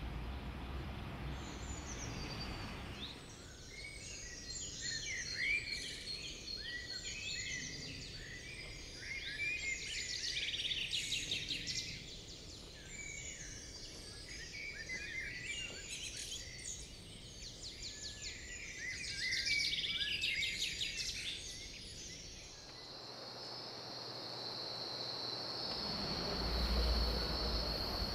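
Many small birds chirping in a dense, overlapping chorus of short high calls. About twenty-two seconds in, the chorus gives way to a steady high insect trill, with a low rumble of background noise rising near the end.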